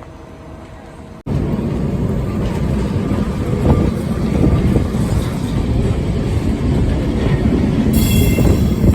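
Lisbon Tram 28 electric tram running on its rails, a loud, dense rumble that starts abruptly about a second in. Near the end, a brief high-pitched wheel squeal.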